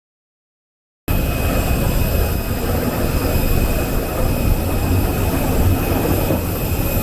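Dead silence for about the first second, then the steady hum of an airliner cabin parked on the ground: a low rumble with a thin, steady high whine over it.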